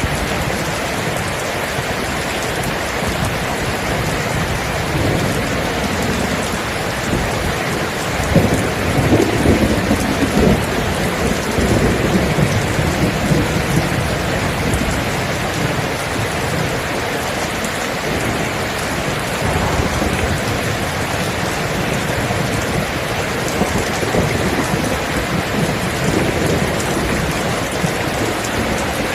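Steady rain falling, with thunder rumbling through it. The rumble swells loudest about eight to eleven seconds in.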